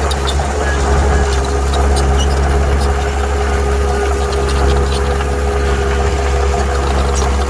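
Heavy diesel engine of earthmoving machinery running steadily at a constant pitch, with short, faint high-pitched clicks scattered over it.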